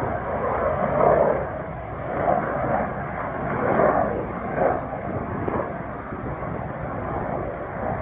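Royal Navy AW101 Merlin helicopter passing, a continuous noisy rumble of rotors and turbine engines that rises and falls in loudness.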